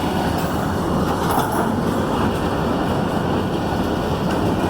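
A train rolling along the rails with a steady rumble of wheels and cars.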